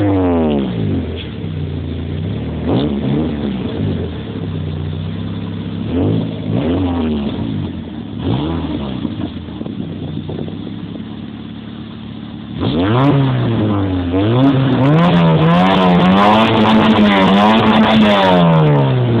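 Citroën AX engine through a Remus aftermarket exhaust, revved with no load. The revs fall back to idle at the start, then a few short throttle blips follow. About twelve seconds in, the revs jump and are held up, rising and falling, before dropping again near the end.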